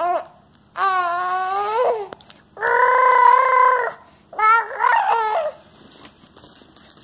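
A baby making drawn-out vocal sounds, half cry and half babble: a brief call, then three long ones in a row, the first bending in pitch, the second held steady and the loudest, the third wavering. They stop about five and a half seconds in.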